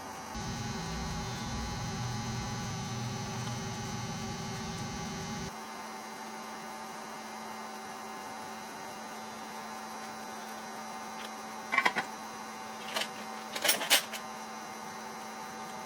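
A low electrical hum comes on just after the start and cuts off about five seconds in. A few sharp clicks follow near the end.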